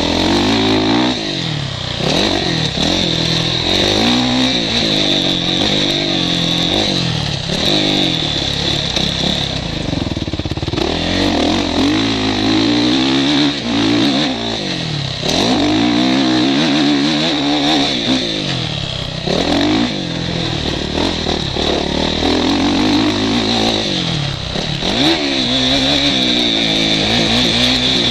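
Motocross motorcycle engine heard from the rider's helmet camera, its revs climbing and falling over and over as the bike accelerates and backs off around the track.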